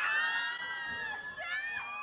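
A high-pitched squealing voice, one long held squeal and then a couple of shorter sliding ones that fade out.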